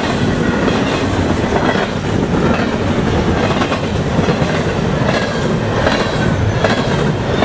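Double-stack intermodal container cars of a freight train passing close by at speed: a loud, steady rush of steel wheels on rail, with repeated clacks of the wheels over the track.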